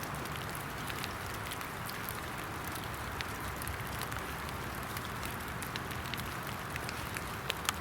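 Steady rain falling: an even hiss sprinkled with many small scattered drop ticks, with a couple of sharper clicks near the end.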